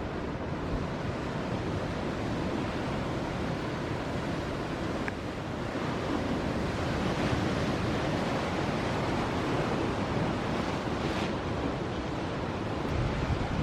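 Ocean surf breaking in a steady rush, growing a little louder about halfway through, with wind buffeting the microphone.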